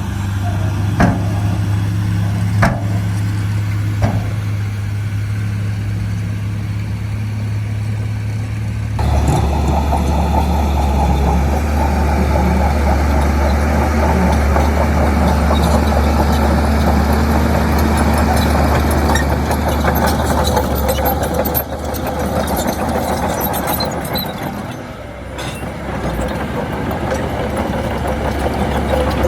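Heavy diesel engine of an excavator or bulldozer running steadily, with a few sharp metallic clanks in the first few seconds. About nine seconds in, the engine note drops lower and grows louder and rougher as the machine works harder, easing briefly near the end.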